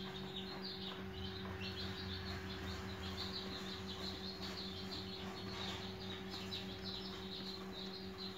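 Small birds chirping continuously, many short high chirps overlapping one another, over a steady low electrical hum.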